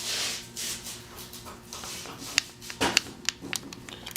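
A short scrape, then scattered light metallic clicks and clinks as parts of a pulled Chevy V8 engine are handled and wiggled, a part that is loose as can be.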